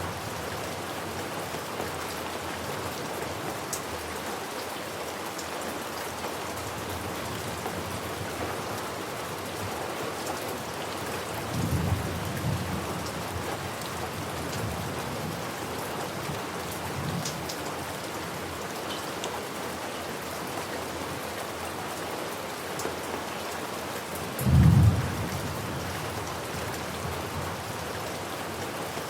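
Steady rain falling, with thunder: a low rumble of thunder about twelve seconds in that rolls on for several seconds, and a shorter, louder peal about twenty-five seconds in.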